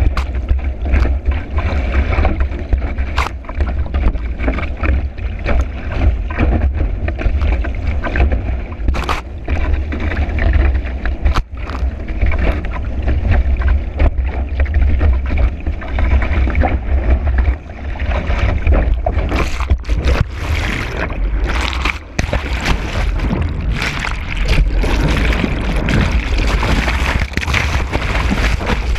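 A kiteboard planing fast over choppy water, heard from a camera mounted on the board: heavy wind rumble and rushing water, with scattered sharp knocks as the board hits chop. In the last third the hiss of spray grows stronger.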